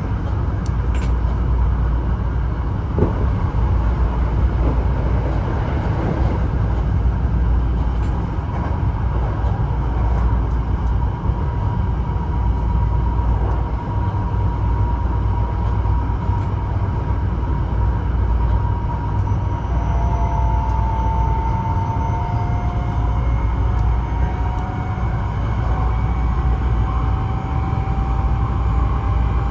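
Hankyu electric commuter train running along the line, heard from inside the car: a steady low rumble of wheels on rail, with a faint whine that slides slowly upward in the second half.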